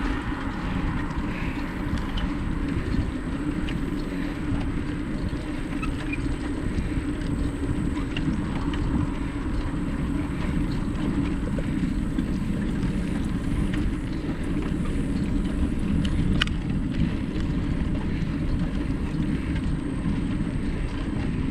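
Bicycle ridden along a trail: a steady low rumble of wind on the microphone and tyres rolling, with a few small clicks and rattles.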